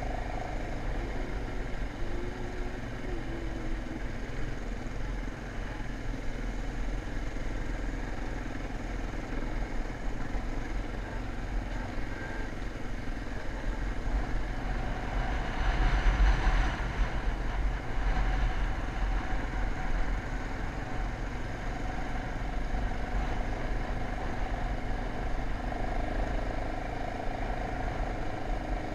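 Dirt bike engine running steadily while riding, with a heavy low rumble underneath. It swells to its loudest about halfway through, then settles back.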